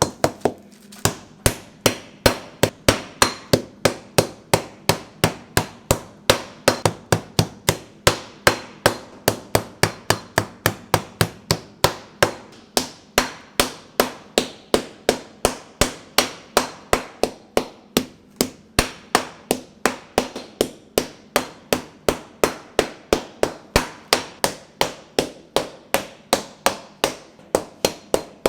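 Pork being pounded flat with a meat mallet for cutlets: a steady run of sharp strikes, about three to four a second.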